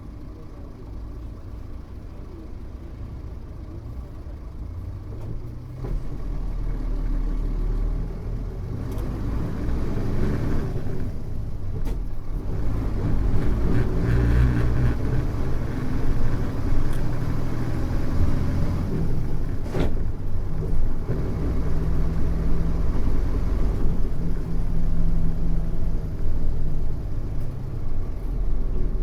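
Mitsubishi Fuso U-MK618J route bus's diesel engine, heard from inside: it runs quietly at first, then about six seconds in pulls away. Its revs climb and fall back in steps as it works up through the gears.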